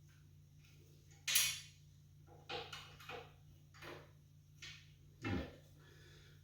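Bolts, lock nuts and hand tools handled while support legs are bolted to a generator's steel base: about six short metal knocks and clinks, the loudest about a second in and a deeper thump near the end, over a steady low hum.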